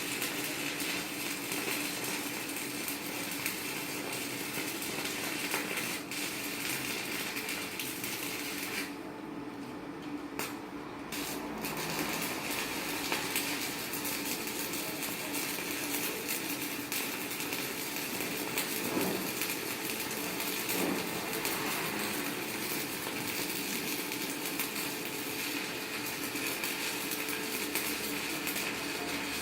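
Stick welding with a 4.0 mm electrode on a Chinshui 160ARC inverter arc welder: the arc crackles steadily. About nine seconds in the crackle cuts out, and it starts again after a couple of seconds.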